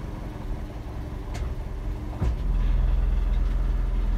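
A 2007 Toyota Yaris engine idling steadily, heard from inside the cabin. There is a short click about a second in and a clunk about two seconds in, after which the engine note is louder and deeper.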